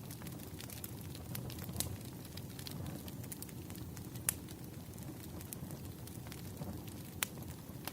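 Wood campfire burning: a steady low rumble of flame with frequent sharp crackles and pops, two of them louder, about four and seven seconds in.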